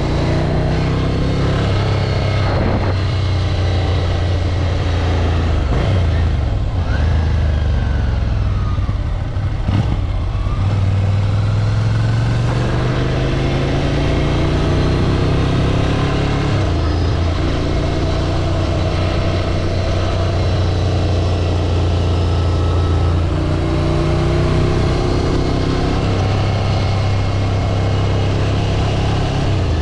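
Ducati Scrambler 803's air-cooled L-twin engine running under way, its note dropping and climbing again with several gear changes and a rising pull about a third of the way through.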